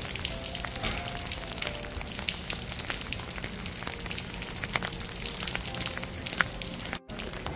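Steady rain with many separate drops striking close by, under soft background music with a few held notes. The sound cuts out for a moment near the end.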